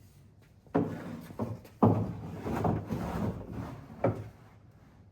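Pieces being slid into the grooves of a pickup truck bed: a knock about a second in, then a louder knock followed by a couple of seconds of scraping as a piece slides along the groove, and a last short knock near the end.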